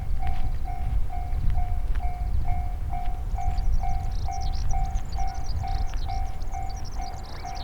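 Japanese railway level-crossing alarm ringing its steady repeating 'kan-kan' tone about twice a second, over the low rumble of a passing train that slowly eases off. Small birds twitter high above it from a few seconds in.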